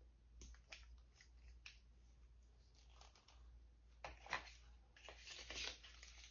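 Light handling noises: a few small clicks in the first two seconds, then a louder run of scratchy, crackling rustles from about four seconds in.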